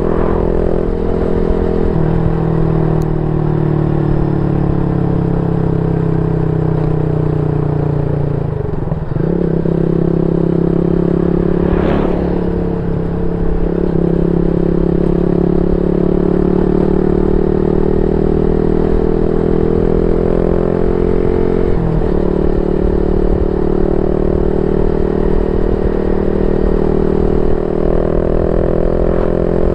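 Yamaha Y15ZR's 150cc single-cylinder four-stroke engine running through a YYPANG aftermarket exhaust, its note drifting slowly up and down. The note breaks briefly about nine seconds in and again about twenty-two seconds in, and there is a short click at about twelve seconds.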